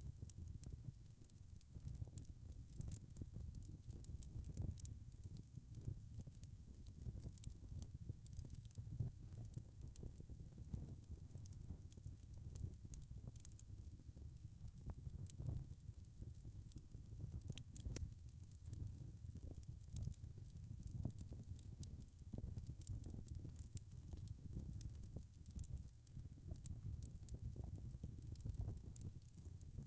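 Wood fire crackling: frequent small sharp pops and clicks over a low steady rumble of flames.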